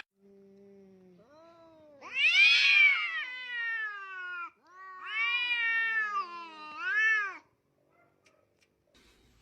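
A cat yowling: a faint low note, then two long drawn-out meows that rise and fall in pitch, and a shorter rising-falling one.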